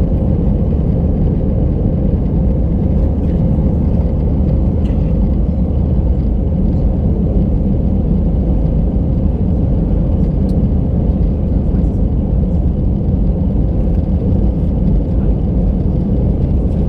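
Steady low rumble of cabin noise inside an Airbus A319 in its climb, engine and airflow noise heard from a window seat, with a faint steady hum running through it.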